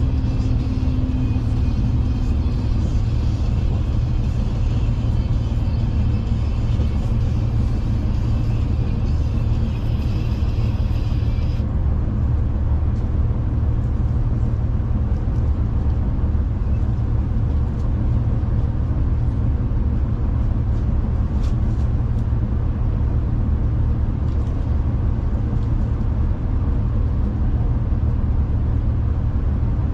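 Steady low rumble of a passenger train running between stations, heard from inside the carriage. A higher hiss over it cuts off suddenly about twelve seconds in.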